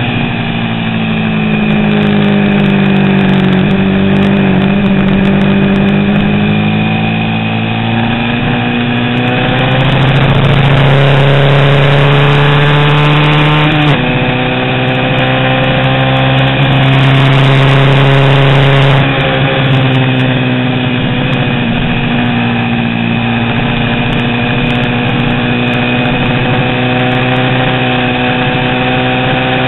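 A 350 cc vintage racing motorcycle engine running hard on track, its revs climbing and falling as it is ridden through corners. Two sudden drops in pitch come near the middle, sounding like gear shifts.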